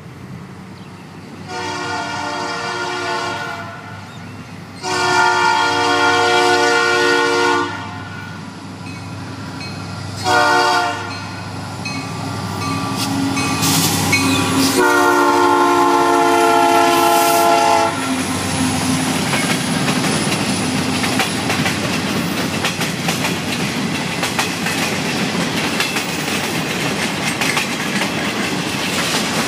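Union Pacific SD70 diesel locomotive's air horn sounding the grade-crossing signal, long, long, short, long, as the train approaches and passes. Then the locomotive and a string of boxcars roll by, the wheels running steadily over the rails.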